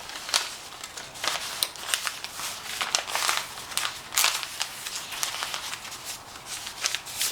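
Irregular short scrapes, clicks and rustles of hand work with small parts and tools, high in pitch and uneven in rhythm.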